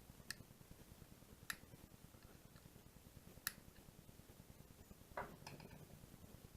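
A few sharp, isolated clicks of small plastic parts being handled, with a short cluster of clicks about five seconds in: a small plastic piece on a toy-class quadcopter being worked loose and snapped off.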